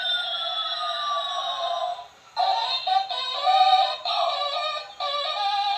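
Electronic toy aeroplane-car playing a tinny electronic melody through its small speaker. A falling tone over the first two seconds gives way, after a brief pause, to a tune of short stepped notes.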